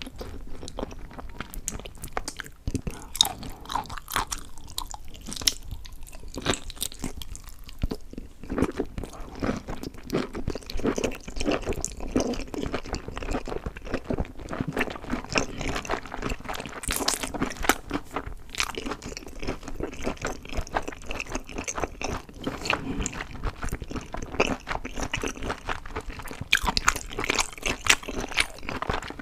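A person chewing and crunching food close to the microphone, with dense, irregular crisp crunches and bites throughout.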